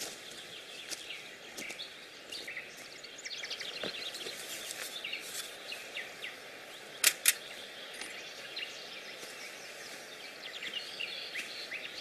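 Small birds chirping and singing over a quiet outdoor hiss, with two sharp knocks close together about seven seconds in.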